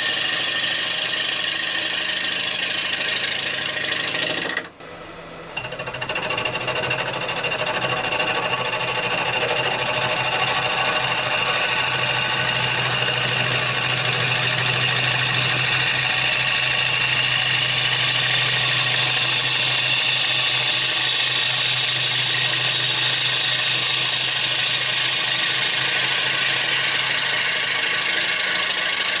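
Wood lathe spinning a rowan bowl blank while a bowl gouge cuts it, a steady mechanical scraping and whirring. The sound drops away sharply about five seconds in and builds back up over the next couple of seconds.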